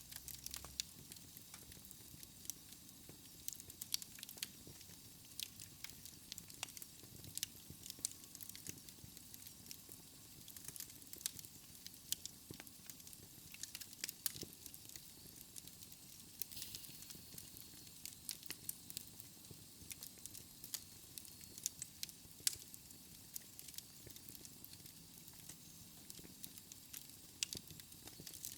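Fire crackling in a fireplace: irregular sharp snaps and pops over a low, steady rumble of the flames.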